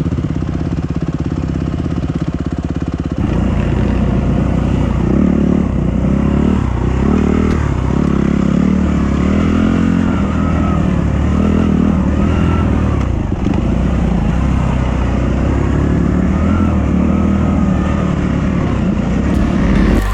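Dirt bike engine running on a trail, its revs rising and falling with the throttle. The sound changes abruptly about three seconds in.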